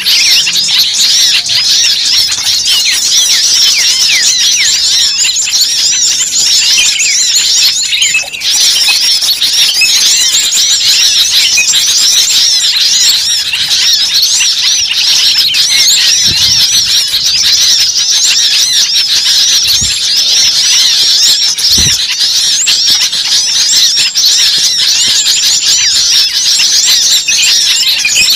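A loud, dense chorus of many small birds calling at once, with rapid high-pitched chirps and trills overlapping without a break, as in a noisy bird-lure (pikat) recording.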